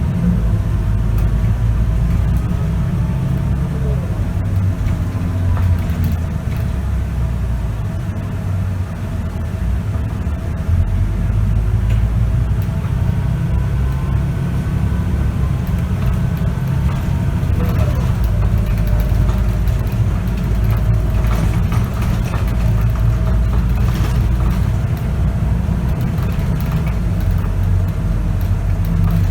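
Scania K94UB city bus heard from inside, its diesel engine running with a steady low rumble and a thin whine from the ZF automatic gearbox that rises and falls as the bus speeds up and slows.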